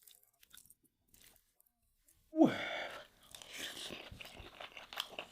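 A person chewing a mouthful of soft beef and grains close to the microphone with wet, smacking mouth sounds. The chewing starts about halfway through, just after a short sound with a falling pitch, after near silence.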